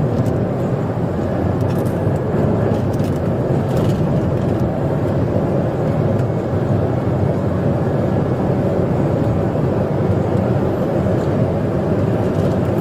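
Steady road and engine noise from a car moving at speed, heard from inside the vehicle, with a few faint clicks.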